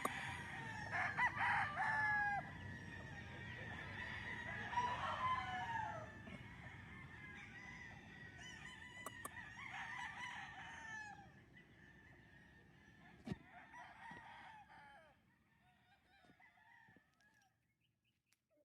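Roosters crowing and chickens clucking in a flock, with a sharp click about thirteen seconds in; the calls grow fainter and fade out near the end.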